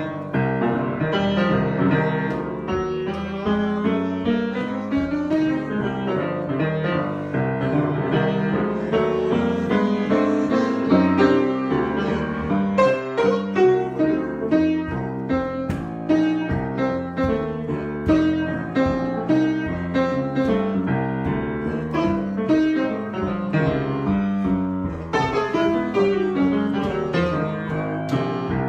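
Solo piano improvisation: a steady stream of notes and chords played without pause.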